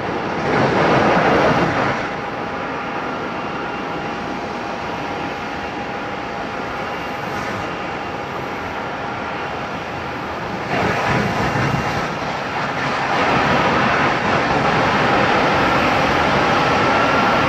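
Boeing 737 jet engines running, a steady noise with a thin whine through it. It swells briefly about a second in and again around eleven seconds, then grows louder and stays up over the last few seconds.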